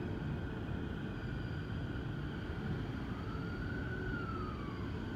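Low, steady rumble of an electric commuter train on the rails at a station platform. A faint tone rises and falls back about three to five seconds in.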